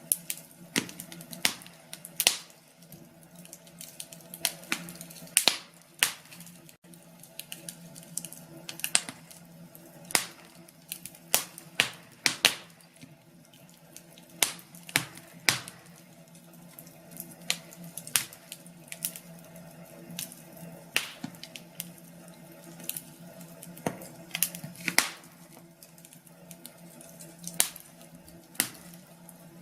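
Wood fire crackling in a fireplace: irregular sharp pops and snaps, several a second, some much louder than the rest, over a faint steady low hum.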